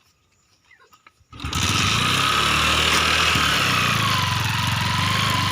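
Small motorcycle engine that comes in suddenly after about a second and a half of near silence, then runs steadily with a high whine over its low beat.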